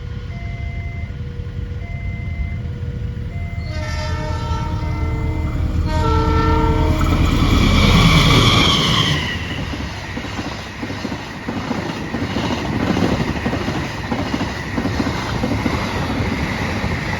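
Level-crossing warning signal chiming in short repeating tones about once a second, over a low rumble. About four seconds in, a diesel locomotive's horn sounds twice. The train then rushes past loudly, its coaches running by to the end.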